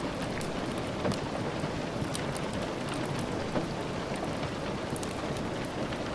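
Steady rain falling, an even hiss with scattered sharp little ticks throughout.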